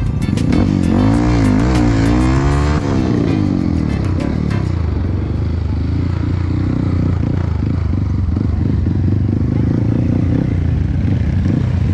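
Trail motorcycle engines revving up and down for the first three seconds or so, then running at a steady idle.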